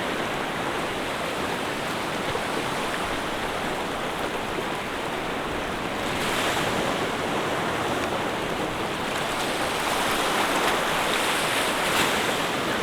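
Ocean surf: a steady wash of waves, with a wave surging louder about six seconds in and another from about ten seconds in.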